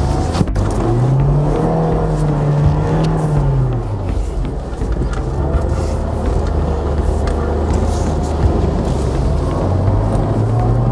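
Lada Niva Travel's four-cylinder petrol engine pulling off-road. Its pitch rises and falls over a couple of seconds about a second in, and again near the end, with scattered short knocks.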